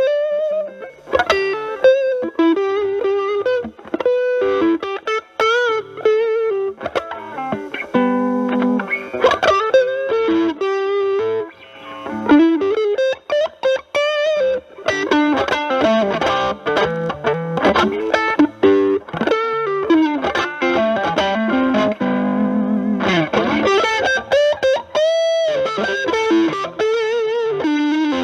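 Stratocaster with single-coil pickups played through a Proco RAT2 distortion stacked with an Ibanez TS9 Tube Screamer into a Marshall Valvestate amp. It plays improvised blues lead lines with string bends and vibrato, including a long bent note held with vibrato near the end. The RAT's distortion is set at 12 o'clock, and the drive is being cleaned up with the guitar's volume knob.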